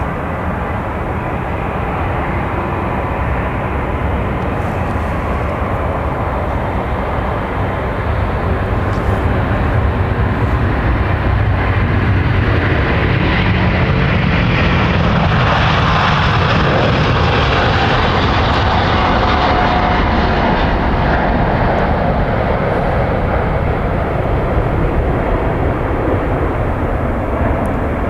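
Jet airliner's engines heard passing by, a steady rushing roar that builds to its loudest about halfway through, brightest at the peak, then slowly fades.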